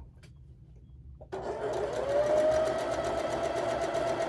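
Electric sewing machine starting up about a second in, its motor speeding up over about a second and then running steadily as it stitches a seam.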